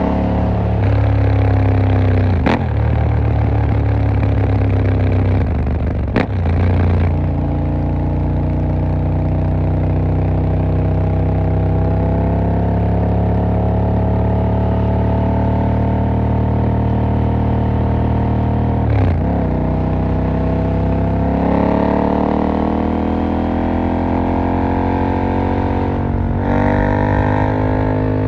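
KTM 890 Duke R's parallel-twin engine running under way, the pitch rising slowly as it pulls through the revs. A few short sharp breaks, at about two and a half seconds, six seconds and nineteen seconds, where the engine note changes, as at a gear change.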